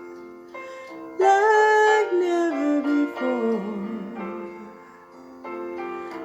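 Slow song music: a voice singing long, wavering held notes over piano.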